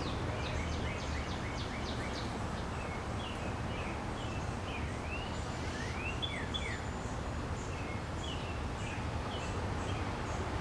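Small birds chirping, with many short rapid chirps and quick up-and-down calls, over a steady low background rumble.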